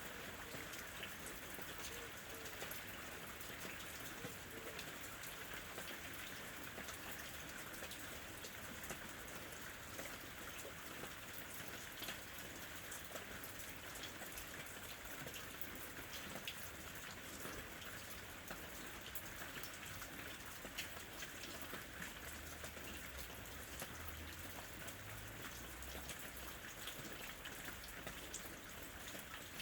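Steady ambient rain, an even hiss dotted with many small drop impacts.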